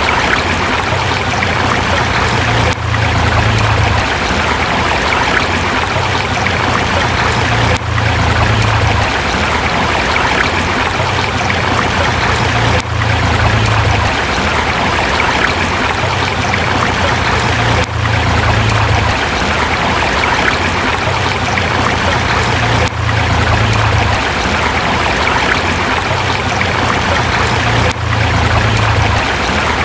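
River flowing over rocks, a steady, full rush of water with a brief dip in level about every five seconds.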